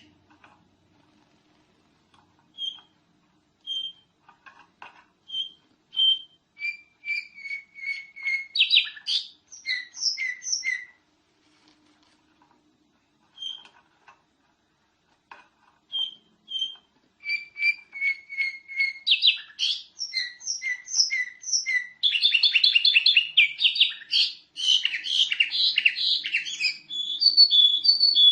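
Domestic canary singing: a few scattered single chirps, then a run of song phrases with falling notes and quick trills, a pause of a few seconds, and a longer, denser stretch of song with rapid trills in the second half.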